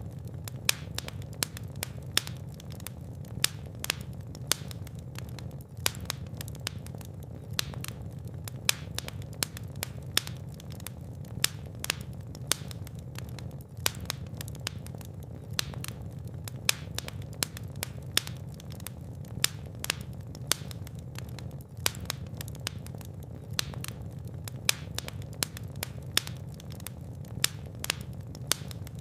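Fire burning in a fireplace: a steady low rumble of flames with irregular crackles and sharp pops, several a second, a few much louder than the rest.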